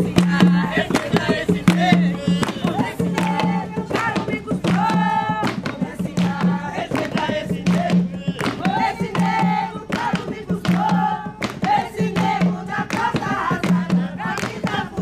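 Jongo: a group singing together over hand drums beating a steady rhythm.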